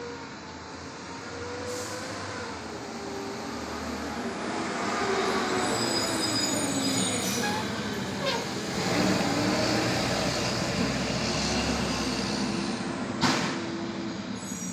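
Hurricane wind rushing in gusts with a wavering, whistling howl, building about five seconds in. A sharp bang stands out near the end.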